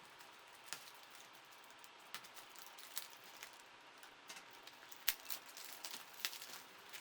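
Packaging being handled and worked open by hand: faint rustling with scattered sharp clicks and snaps, the sharpest about five seconds in.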